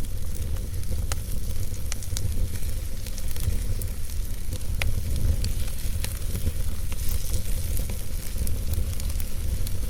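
Wood logs burning in a fireplace: a steady low rumble of flame with scattered sharp crackles and pops and a faint hiss.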